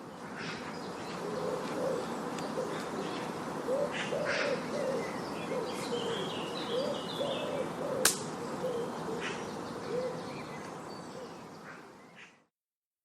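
Birds calling over a steady background hiss: a run of short, low hooting or cooing calls with higher chirps above them, plus one sharp click about eight seconds in. The sound fades in at the start and fades out about twelve seconds in.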